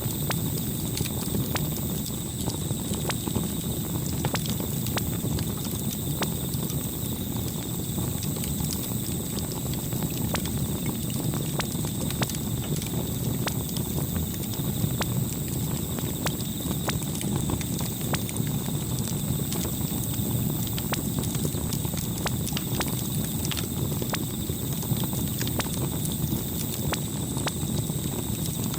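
Campfire burning steadily: a low rumble of flames with frequent, irregular sharp crackles and pops of burning wood.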